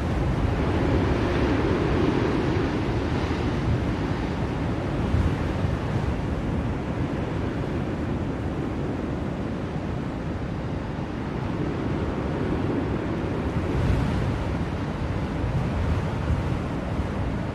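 Blizzard wind blowing steadily in a deep, even rush, swelling into gusts about a second in and again later on.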